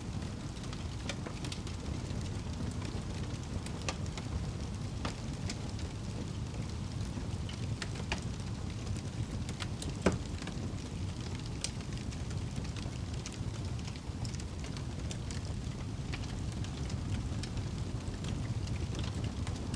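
Wood fire in a fireplace crackling, with frequent small pops over a steady low rumble of the flames, and one louder pop about halfway through.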